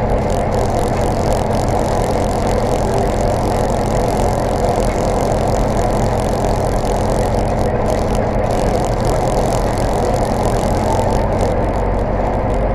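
Zetor tractor's diesel engine running at a steady speed while driving, a constant loud drone that does not change in pitch.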